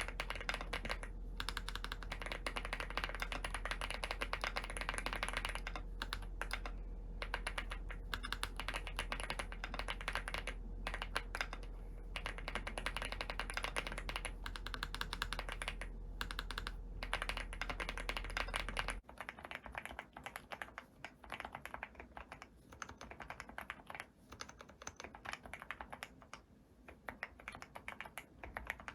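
Continuous fast typing on a custom keyboard, dense key clacks. About two-thirds of the way through the sound changes abruptly to quieter, more spaced-out keystrokes without the low background hum, as a different keyboard or recording takes over.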